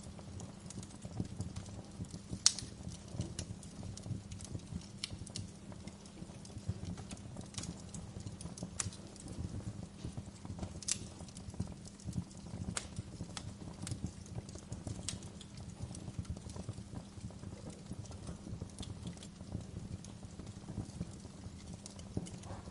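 Fire crackling in a fireplace: irregular sharp pops and snaps over a low steady rumble, the loudest pop about two and a half seconds in.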